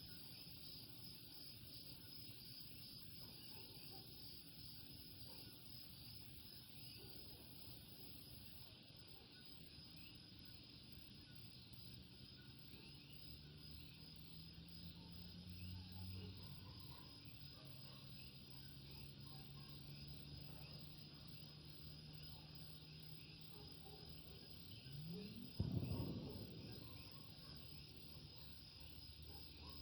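A faint night chorus of coquí frogs and insects: many small repeated chirps over a steady high-pitched trill. A low engine hum swells and fades through the middle, as of a vehicle passing, and a short, louder noise stands out near the end.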